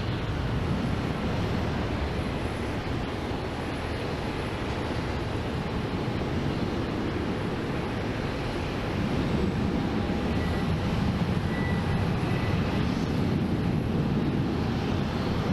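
Jet airliner engines at takeoff power, a steady rumble that swells slightly about nine seconds in.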